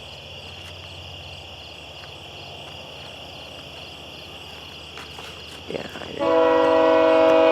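GO train locomotive's air horn sounding about six seconds in: one long, loud chord of several tones held together. Before it, a steady insect buzz and a low rumble from the approaching train.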